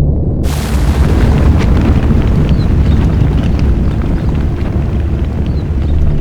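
Volcán de Fuego erupting: a loud, continuous low rumble, joined about half a second in by a sudden wash of hiss and faint crackling.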